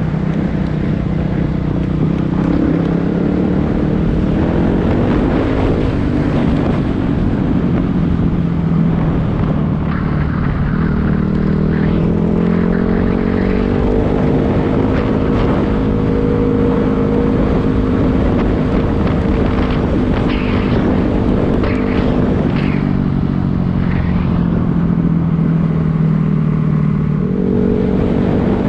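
Dirt bike engine running under way, its pitch rising and falling with throttle and gear changes.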